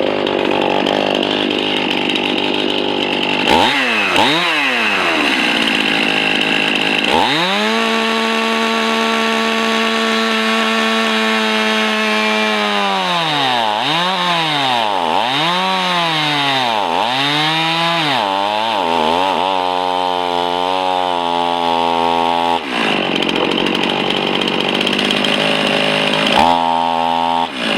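Two-stroke chainsaw working through a green poplar log. It cuts, then runs at high revs for several seconds, drops and revs up again about five times, and settles briefly at idle before cutting again near the end.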